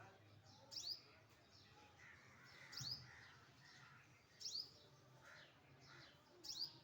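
Small bird giving short, sharp high-pitched chirps, one roughly every two seconds, four in all, with a lower, harsher bird call about two to three seconds in.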